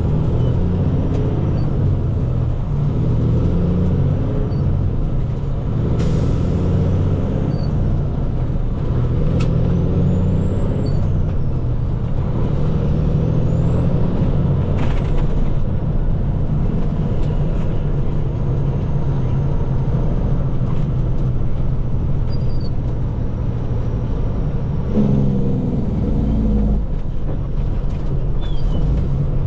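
Water truck's diesel engine running steadily under way, heard from inside the cab, its note shifting with engine speed.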